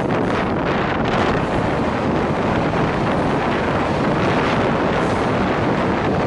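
Rajdhani Express passenger train running at speed, a steady rush of running noise with wind buffeting the microphone.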